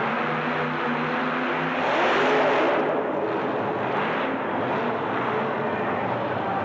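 Racing truck engine running hard with shifting revs, getting louder about two seconds in and then easing back.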